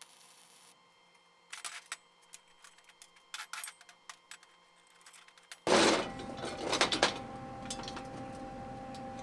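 Steel bracket pieces being handled on a steel welding table: scattered light metallic clinks and knocks, then a loud clank about two-thirds in followed by a few more. A steady hum runs under the clanks from that point on.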